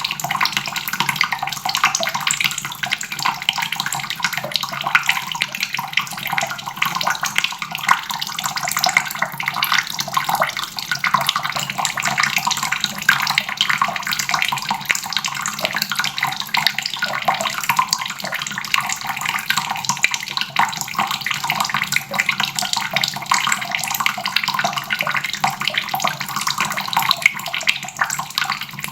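Water tap running steadily, the stream splashing into a basin in an even, unbroken hiss.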